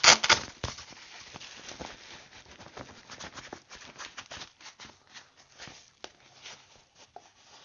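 Handling noises from a new pair of heated motorcycle gloves: a loud rustle right at the start, then scattered soft rustles and light taps.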